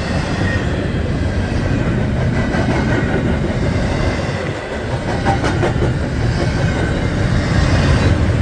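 Norfolk Southern intermodal freight cars rolling past close by: a steady rumble of steel wheels on rail, with a few sharp clacks a little past the middle.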